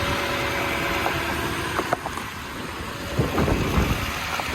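Toyota Tundra's 5.7-litre V8 idling steadily. A couple of sharp clicks come about two seconds in, and a cluster of knocks and rustles near the end.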